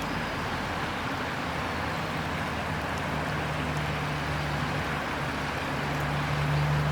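A river flowing with a steady rushing sound. A low steady hum, like a distant engine, comes in about halfway through.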